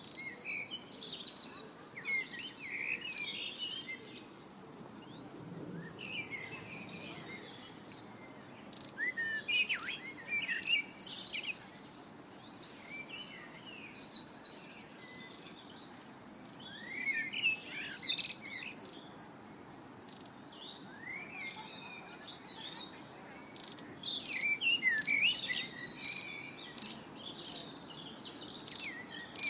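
Several songbirds singing and calling at once: many short chirps and quick whistled slides that overlap without pause, busiest near the end, over a faint steady hiss.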